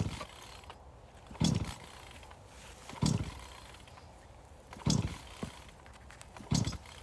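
Axe or splitting maul striking firewood again and again, a sharp crack with a dull thud about every 1.7 seconds, five blows in all.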